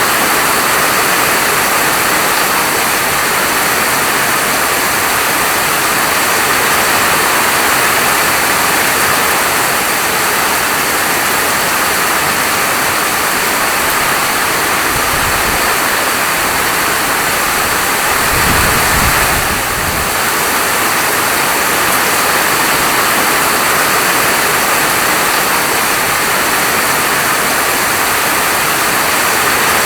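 Steady heavy rainfall, an even hiss of falling rain, with a brief low rumble about halfway through.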